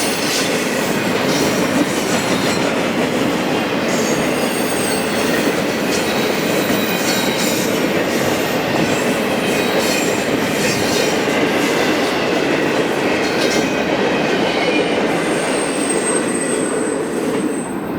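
Intermodal freight train rolling past: a steady rumble of cars with repeated clicks of wheels over rail joints, and a faint high wheel squeal near the end.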